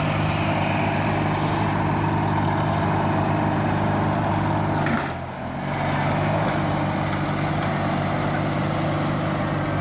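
Riding lawn tractor engines running steadily under load in a pull. About five seconds in there is a short knock, and the engine note sags briefly before picking back up.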